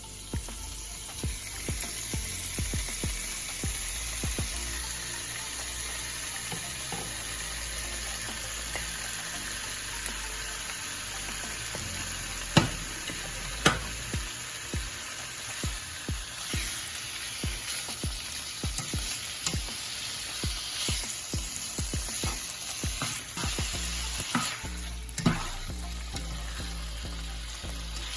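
Chopped sirloin steak sizzling as it sears in a hot pan, a steady hiss broken by scattered clicks. About halfway through come two sharp knocks, a second apart.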